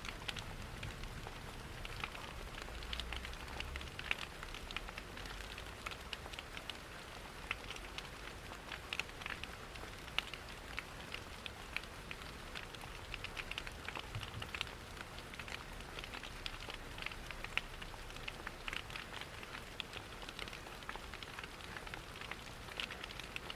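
Steady rain pattering, layered with the irregular small snaps of a crackling wood fire in a fireplace.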